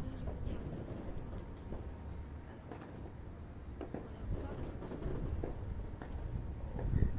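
A cricket chirping steadily in an even, high-pitched pulse of about five chirps a second, over a low rumble with a few faint knocks.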